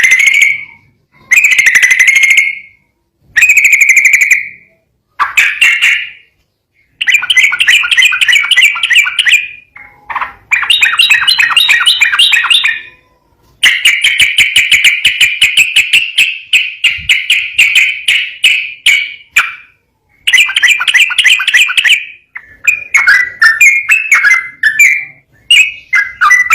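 Yellow-vented bulbul (trucukan) singing in fast, chattering phrases of rapid notes, mostly a second or two long with short breaks between them. About halfway through comes one longer unbroken run of about six seconds.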